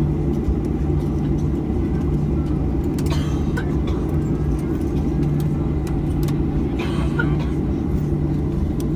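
Steady low rumble of a vehicle's interior with a constant hum, and faint voices near the middle and later on.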